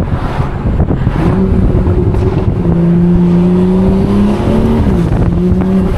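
Car engine running loudly under way, with a steady note that climbs slowly and then dips briefly about five seconds in.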